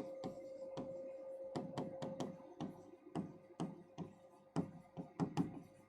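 Faint, irregular light clicks and taps, a few a second, over a faint steady hum that fades out near the end.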